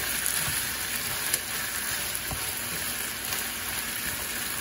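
Sliced beef, onion and red bell pepper sizzling steadily as they are stir-fried in a frying pan, with a wooden spatula scraping through the food a few times.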